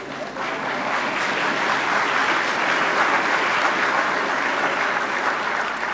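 Audience applauding: many people clapping together, building over the first second and then holding steady.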